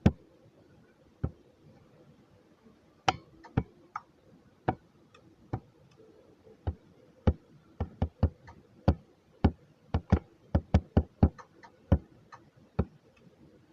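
Irregular sharp clicks and light knocks. They are sparse at first and come faster, several a second, from about eight seconds in.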